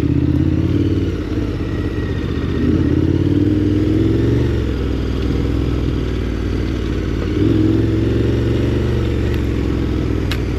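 KTM 1290 Super Adventure R's V-twin engine pulling on a trail, its pitch rising and falling as the throttle is opened and eased off, with a single sharp click near the end.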